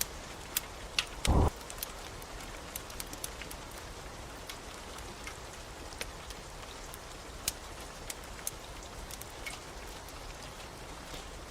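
Steady rain with sharp crackling pops from a wood fire scattered throughout, and one loud, short low thump about a second in.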